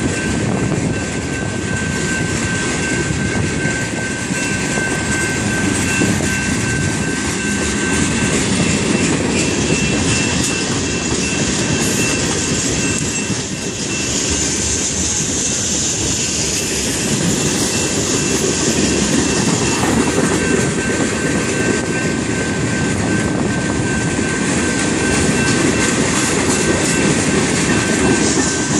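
Freight cars of a BNSF manifest train, mostly tank cars, rolling past at a grade crossing: a steady rumble and clatter of wheels on the rails. Over it a high steady ringing, the crossing bell, drops out for several seconds in the middle and then returns.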